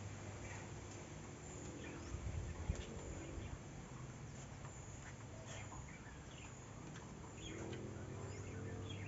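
Small birds chirping and calling over and over in short, high notes, over a steady low hum. There is one brief knock about two and a half seconds in.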